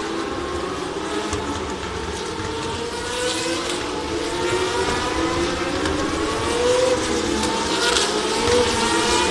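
Several car engines revving and accelerating, their pitch climbing again and again and overlapping, the sound growing louder in the second half.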